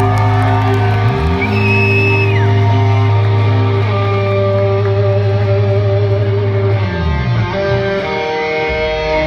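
Live rock band playing with electric guitars and bass holding long sustained notes. The bass slides up about a second in and back down around seven seconds, with a brief high bent guitar note early on.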